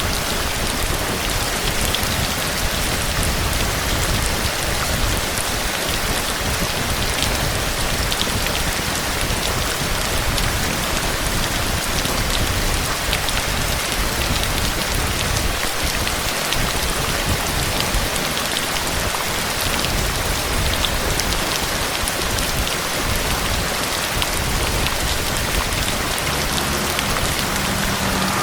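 Steady heavy rain falling on surfaces, a dense even hiss sprinkled with the fine ticks of individual drops.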